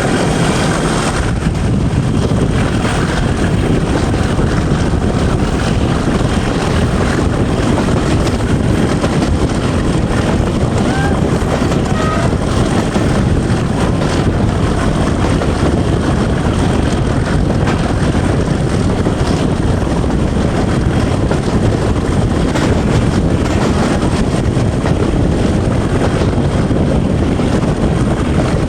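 Class 37 diesel locomotive's English Electric V12 engine running steadily under way, mixed with the rumble of the train, heard from a coach behind the locomotive.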